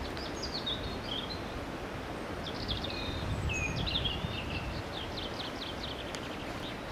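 Small songbirds chirping in short high notes and glides over a steady outdoor background hiss and low rumble; from about four seconds in, one gives a run of quick repeated notes.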